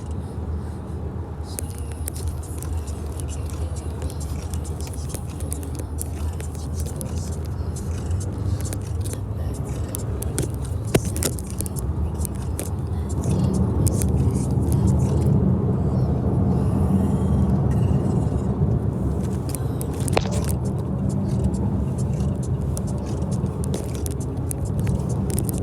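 A car being driven: a steady low engine and road rumble that grows louder about halfway through, with a few scattered clicks.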